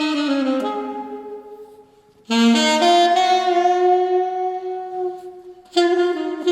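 Solo alto saxophone playing a slow jazz ballad line. A falling run fades almost to silence about two seconds in, then the saxophone comes back in on a long held note, and a new phrase begins near the end.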